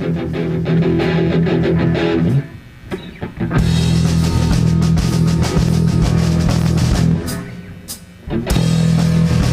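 Live rock band of guitars, bass and drums playing an instrumental passage: a held chord, then a stop, the full band coming in with drums about three and a half seconds in, a second stop with a few hits, and the band returning near the end.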